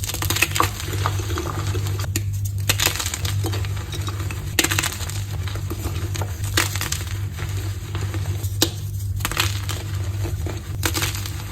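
Dyed gym chalk being crushed: dense crunching and crackling with sharp snaps, with a short pause about two seconds in and another near nine seconds. A steady low hum runs underneath.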